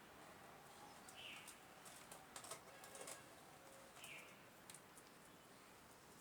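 Near silence: faint scattered light clicks, and a short high chirp that falls in pitch, twice, a bird calling in the background.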